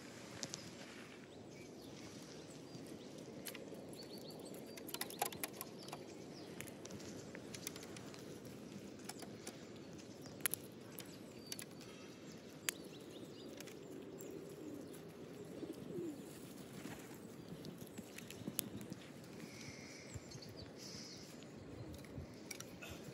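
Outdoor winter ambience: small birds calling now and then over a faint, steady low background noise, with scattered sharp clicks and taps.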